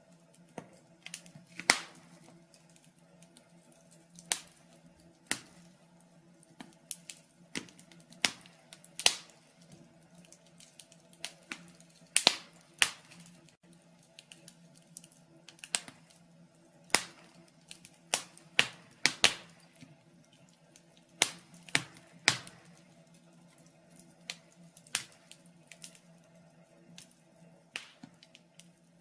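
Wood fire crackling in a fireplace: irregular sharp pops and snaps, from single ones to quick clusters, over a faint steady hum.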